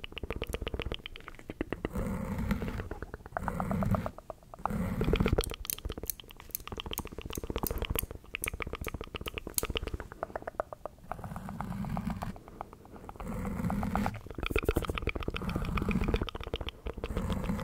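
Close-miked ASMR mouth sounds: fast runs of wet clicking and smacking in uneven bursts, with a few sharper clicks in the middle.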